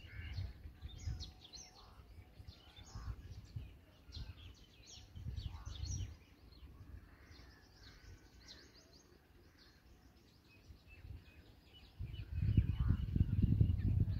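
Birds chirping in many short, high calls. About twelve seconds in a loud, low rumble sets in.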